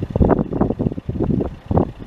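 Wind buffeting the microphone in uneven, gusty rumbling bursts.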